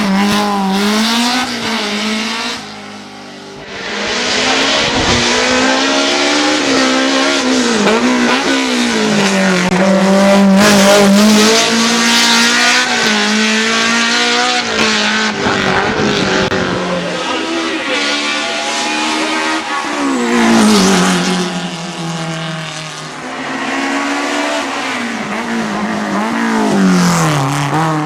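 BMW M3 E30 race car's four-cylinder engine revving hard, its pitch climbing and falling again and again as it accelerates and shifts gear. The sound drops away briefly about three seconds in, then comes back.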